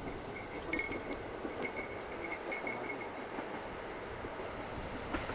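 A train running along the track with a steady rumble, with short, high metallic ringing from the wheels on the rails between about one and three seconds in.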